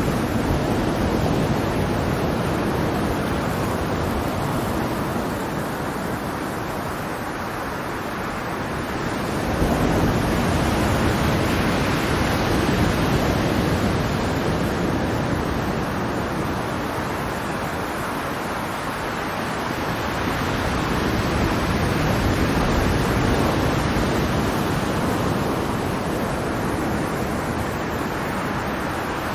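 Ocean waves washing onto a shore in a continuous rushing surf, swelling louder twice as waves come in, about ten seconds apart, then easing off.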